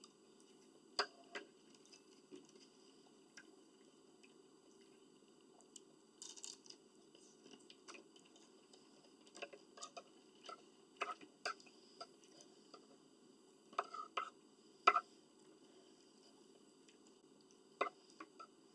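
Eating sounds from oatmeal and bacon strips: scattered soft clicks and smacks of chewing, irregular, with a cluster of louder ones around the middle and the loudest about fifteen seconds in, over a faint steady hum.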